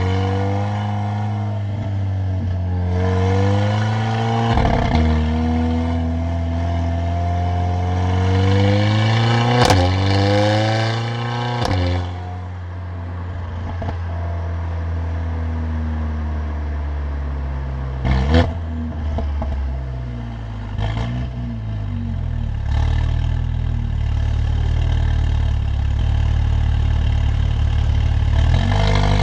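Stage 2 tuned Mercedes-AMG CLA45's turbocharged four-cylinder engine and loud exhaust under way, the engine note rising and falling through acceleration and shifts. A few sharp cracks come from the exhaust, the loudest about ten and eighteen seconds in.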